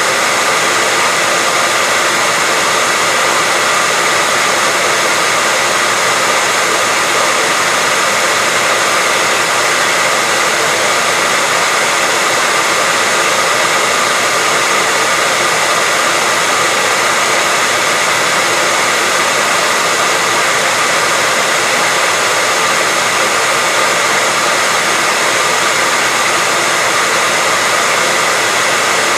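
Hair dryer running steadily, a constant rush of air with a faint steady whine in it.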